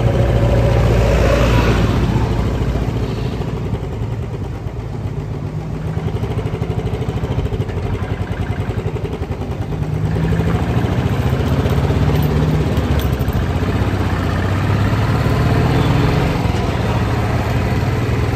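Motorcycle engine running while riding, held low in slow traffic for the first few seconds, then revving up as it pulls away about halfway through, with another rise in revs near the end.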